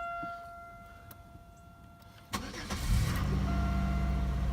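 A steady electronic chime tone sounds. About two seconds in, the starter cranks briefly and the 2003 Buick Century's 3.1-litre V6 catches on a cold start. It flares up, then settles into a steady idle while the chime tone comes back.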